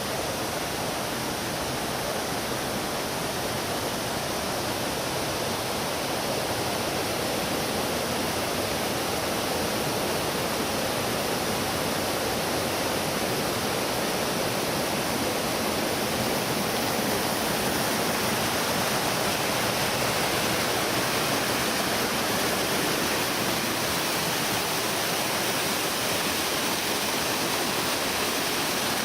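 Steady rush of water pouring down a pump-fed artificial waterfall. The flow is running slower than it sometimes does.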